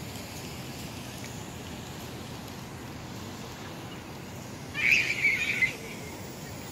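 Birds chattering loudly for about a second, a little under five seconds in, over a steady outdoor background hiss.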